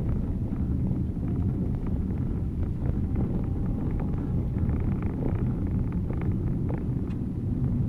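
Steady low rumble of a car driving, heard from inside the cabin: engine and tyres running on a slick, packed-snow road.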